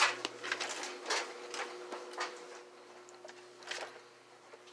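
A series of irregular light clicks and taps, several close together in the first second and sparser after, over a faint steady hum.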